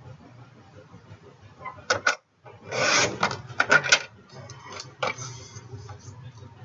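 Card stock and craft supplies being handled on a desk: rustling and rubbing with several sharp clicks and knocks, busiest around the middle.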